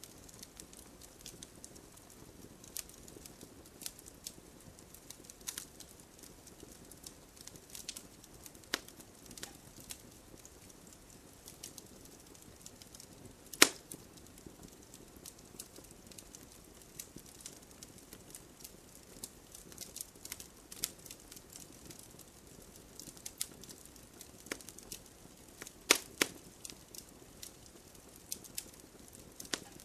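Wood fire in a fireplace crackling, with irregular sharp pops over a soft steady hiss; the loudest pop comes about halfway through, and two more strong ones come close together near the end.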